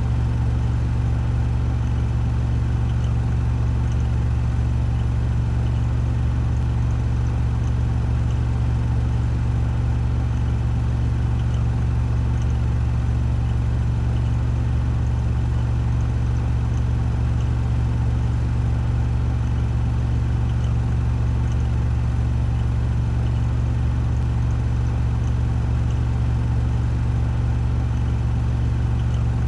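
Washing machine drum spinning at 1400 rpm in its spin cycle: a steady, unchanging low hum with faint scattered ticks above it.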